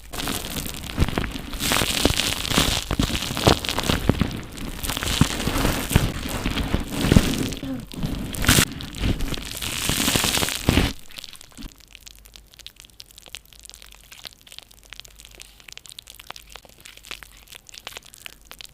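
Foam being handled close to the microphone, giving dense crackling and crunching with many small sharp pops. About two thirds of the way through it drops abruptly to a faint, sparse crackle.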